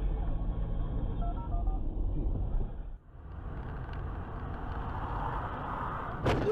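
Steady road and engine noise of a moving car heard from inside, with a few short faint beeps about a second in. The sound cuts abruptly about halfway through to another stretch of steady road noise that swells slightly toward the end, where there is a sharp click.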